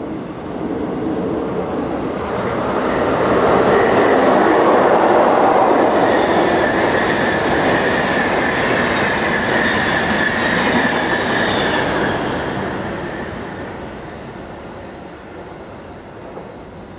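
A train passing through the station, building up, loudest for several seconds in the middle with a steady high whine over the rolling noise, then fading away.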